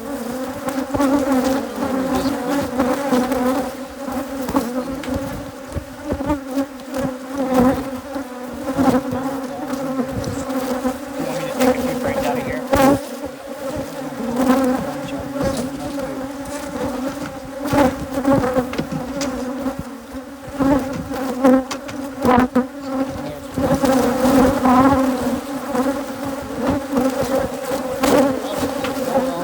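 A large colony of Africanized hybrid honeybees buzzing in a loud, steady drone around the opened hive, with scattered clicks and knocks.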